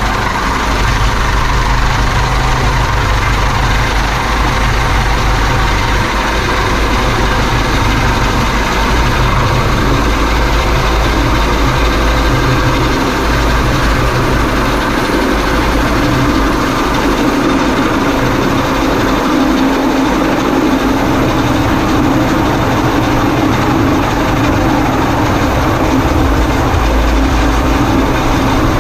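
Coast Guard helicopter running loud and steady, a continuous drone of turbine and rotor with a strong low hum.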